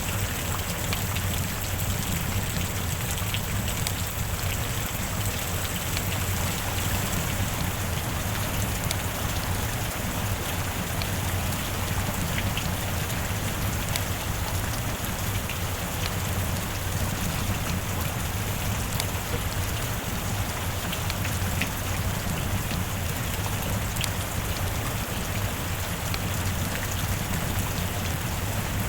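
Steady heavy rain falling, an even hiss with scattered individual drops ticking.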